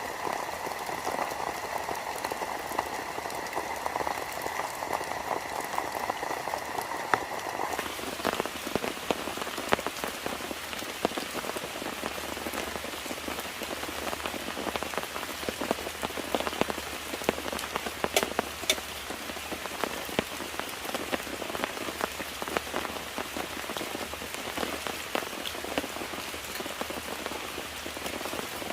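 Steady rain falling, with many separate drops striking a surface. About eight seconds in the sound changes abruptly, from a denser hiss with faint steady tones to plain rain and drops.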